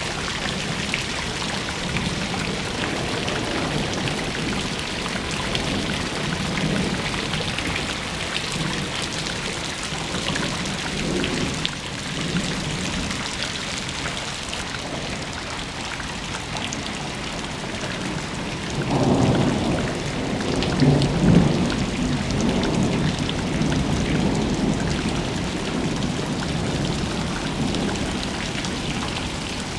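Steady rain falling, with a low roll of thunder about 19 seconds in that lasts a few seconds.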